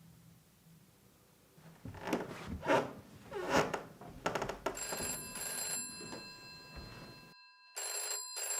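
Telephone ringing in repeated bursts, starting about five seconds in, after a few short noisy sounds.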